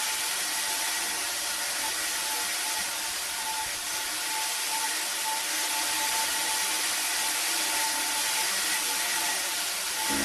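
A small motor running steadily: an even whirring hiss with a faint tone that swells and fades about once a second.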